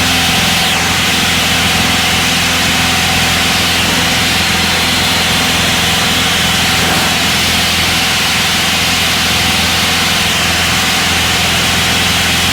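Citabria 7ECA's four-cylinder Lycoming aircraft engine droning steadily in flight, heard from inside the cockpit, with a steady hiss of airflow over it.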